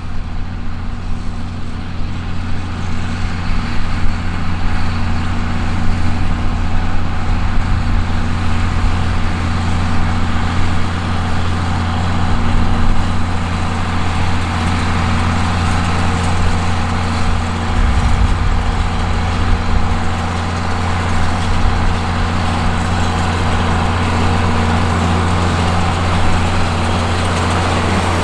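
John Deere 4430 tractor's turbocharged six-cylinder diesel engine running steadily while pulling a round baler through hay. It is a loud, even drone with no gear changes or revving.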